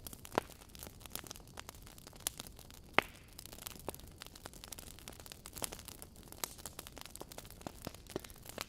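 Wood fire crackling: irregular sharp pops and snaps from burning logs over a faint hiss, with one loud pop about three seconds in.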